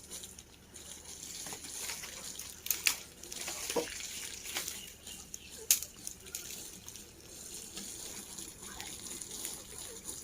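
Water running and splashing as a German Shepherd dog plays in it, with a few sharper, louder splashes.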